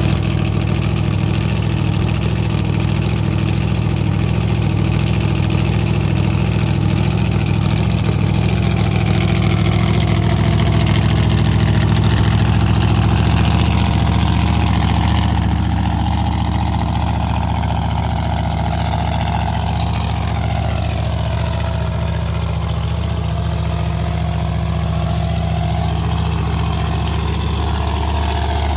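A large vehicle engine running steadily near idle, its pitch gliding slowly up and down, with a shift to a deeper note about halfway through.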